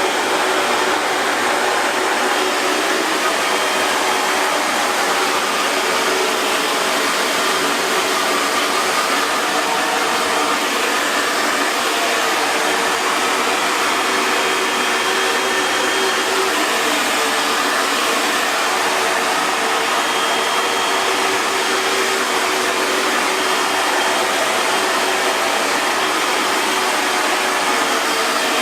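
Hair dryer running steadily, an even airy rush with a faint steady hum underneath.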